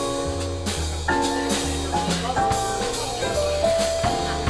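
Jazz band playing, with drum kit hits, bass notes and held chords above them.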